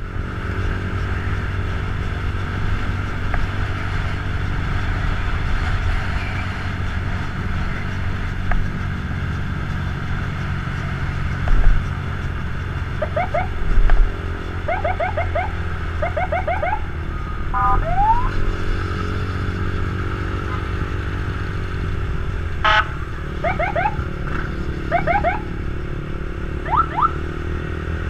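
Motorcycle engine running steadily while riding, its pitch dipping and rising again about two-thirds of the way through. Over it come two spells of short rising chirps in quick groups, like an alarm-type siren, along with a few brief knocks.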